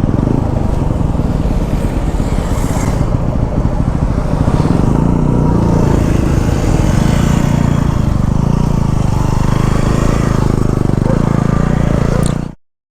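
Motorcycle engine running steadily while riding, with heavy low wind rumble on the microphone. It cuts off suddenly near the end.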